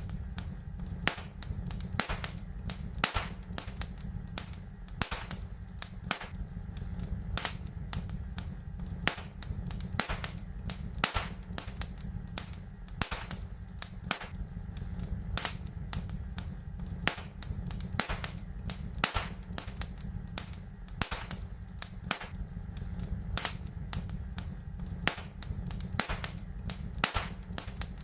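Fire in a fireplace crackling: sharp, irregular pops and snaps several times a second over a steady low rumble.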